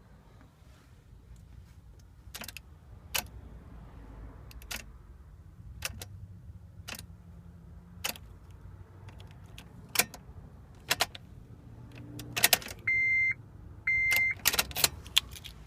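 Car key and ignition switch clicking and rattling as the key is worked over and over, with no cranking from the engine: a car that is dead at the key, not even a starter solenoid click. Two short electronic chime beeps from the dashboard sound near the end.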